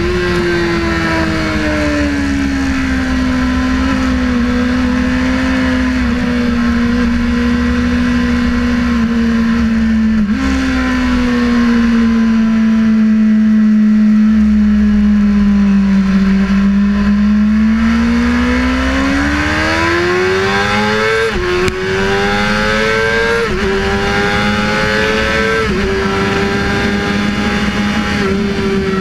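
Sportbike engine heard onboard at track speed. The revs ease off with a single downshift about ten seconds in and fall away through a slower stretch. The engine then pulls steadily back up and runs through a series of quick upshifts, each a short climb in pitch followed by a drop, under a constant low rush of wind.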